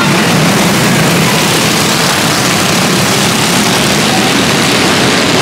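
Loud, steady rushing vehicle noise with no rise or fall and no clear engine note.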